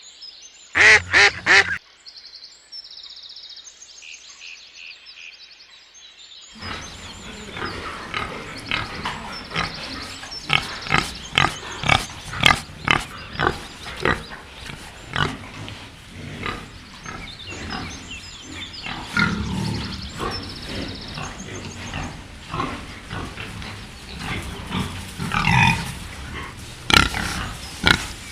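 Pigs grunting over and over in short, irregular grunts, beginning about six seconds in after a few loud honking calls near the start.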